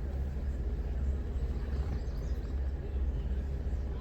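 Off-road vehicle driving along a mountain trail: a steady, deep engine and drivetrain rumble.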